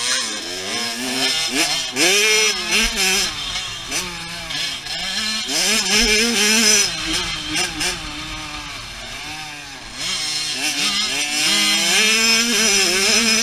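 Small two-stroke dirt bike engine being ridden, its pitch climbing and dropping again and again as the rider works the throttle. It drops back for a couple of seconds past the middle, then comes up louder again.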